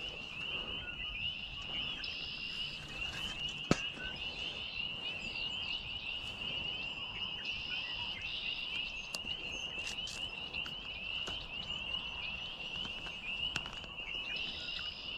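A chorus of frogs calling: a steady, high-pitched rapid trill that never breaks, with one sharp click about four seconds in.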